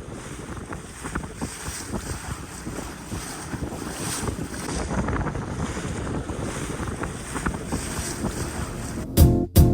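Wind buffeting the microphone over the sound of water splashing and lapping against a small sailboat under way. Music with a strong, even beat starts near the end.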